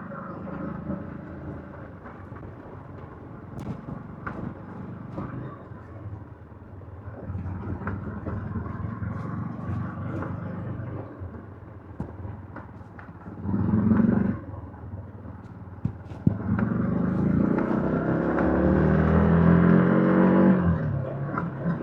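Yamaha MT-15's 155 cc single-cylinder engine through its stock exhaust, running at a low, steady level at first. About two-thirds of the way through it gives a short burst of revs, then pulls hard, its pitch climbing for several seconds before easing off near the end.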